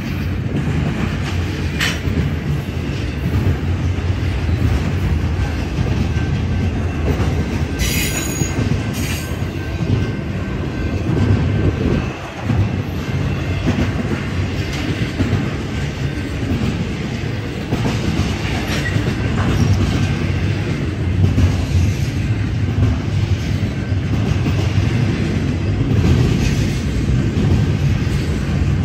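Double-stack container train's well cars rolling past close by: a steady rumble of steel wheels on the rails, with clicks from the rail joints and a brief high wheel squeal about eight seconds in.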